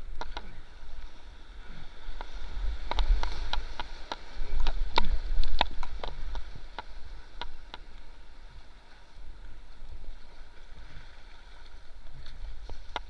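Rushing river water around a paddled boat in a rapid, with a steady low rumble. A run of sharp knocks, about a dozen, comes in the middle, between about two and seven seconds in.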